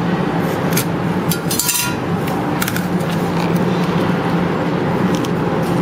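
Scattered clicks and clinks of a sealed trading card box being handled and worked at while someone struggles to open it, with a cluster of clicks about one and a half to two seconds in, over a steady low hum.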